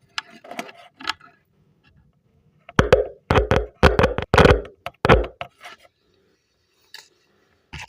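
Loudspeaker crackling and popping as a battery is touched across its terminals, a few faint crackles at first, then about five loud crackly bursts between three and five and a half seconds in. The speaker answers the battery, the sign that its voice coil is intact and the speaker is working.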